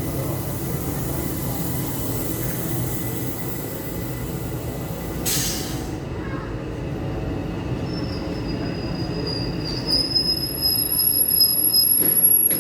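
Zentralbahn multiple-unit train running slowly into the station with a steady rumble. A high hiss for the first few seconds cuts off suddenly. From about eight seconds in, high steady squealing sets in from the wheels and brakes as it slows, getting louder near the end.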